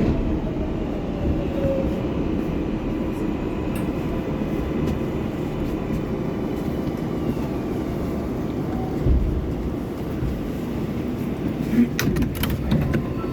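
Inside a stopped R188 subway car: a steady low rumble and hum from the train's equipment, with faint whining tones and a few sharp clicks near the end.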